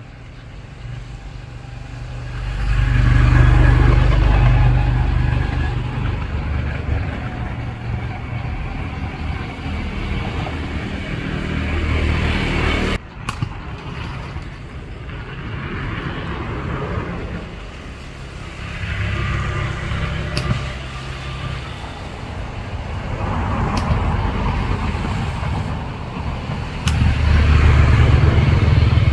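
Engine rumble that swells and fades several times, with a sudden break about thirteen seconds in.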